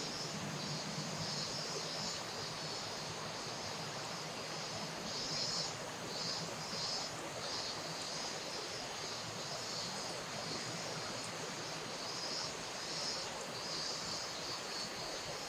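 Steady outdoor ambience dominated by the hiss of flowing river water, with a continuous high-pitched band that swells and fades slightly.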